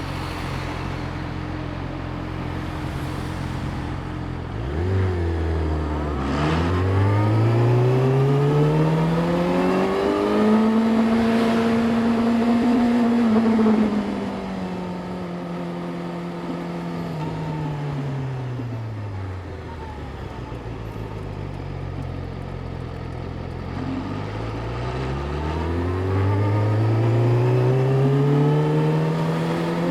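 Yamaha YZF-R6's inline-four engine running at low revs, then pulling away with the pitch rising steadily over about five seconds, holding, and falling back as the bike slows. Near the end it rises again as it pulls away once more.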